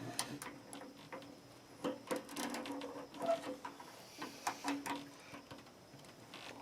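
Scattered small clicks, taps and scrapes of hand work on an electric water heater's thermostat and wiring inside its access panel, with a faint hum underneath.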